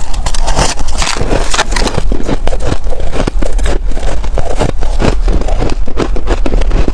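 Freezer frost being chewed close to the microphone: dense, irregular crunching and crackling, several crunches a second.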